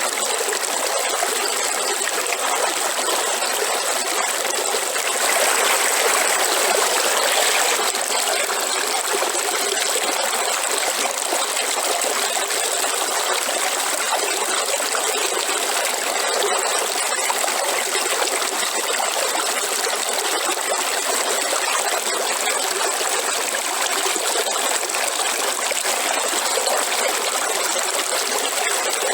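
Waterfall: a steady rush of falling and splashing water, swelling slightly about five seconds in and easing again a few seconds later.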